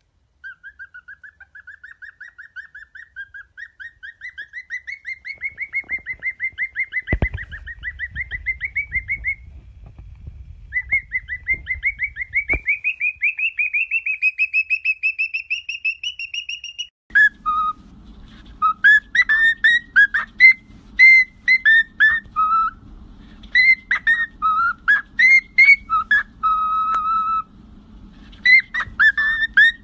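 Parrot whistling. It starts with a fast run of short chirps that slowly climbs in pitch and grows louder. After a short pause a second climbing run follows. From just past halfway there is a string of separate loud whistled notes.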